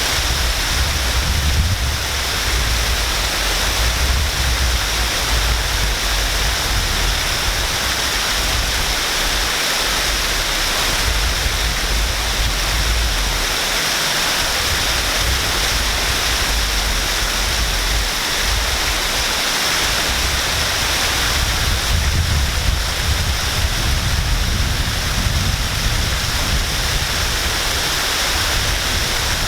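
Waterfall, falling water rushing steadily, with a deep low rumble underneath that swells and fades.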